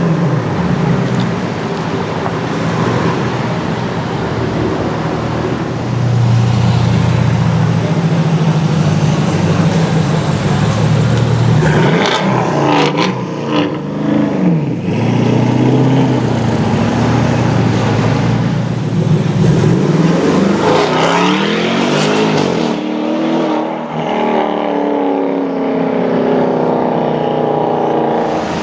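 Gemballa-tuned Porsche Cayenne's V8 running loud, a steady deep engine note for about the first twelve seconds. After that its pitch rises and falls several times as it revs and accelerates.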